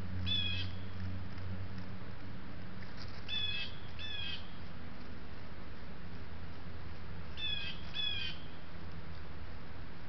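A bird calling five times in short calls: one alone, then two pairs a few seconds apart, over a steady low hum.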